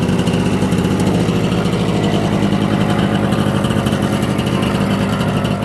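BSA Bantam's 125cc D1 two-stroke single-cylinder engine idling steadily, with a quick, even firing beat.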